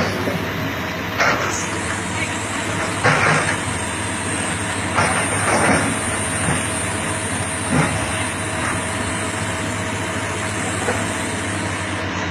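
A heavy vehicle's engine running steadily, with a few sharp knocks or clanks over it.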